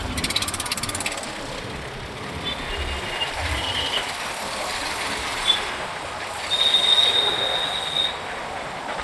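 Road traffic noise heard from a moving motorcycle, with rapid ticking in the first second, a few short high-pitched tones, and a high-pitched squeal lasting about a second and a half in the second half.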